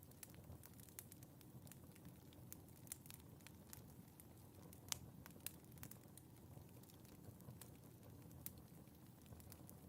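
Fire in a fireplace crackling faintly: irregular sharp pops and snaps over the low rumble of the flames, with the loudest pop about five seconds in.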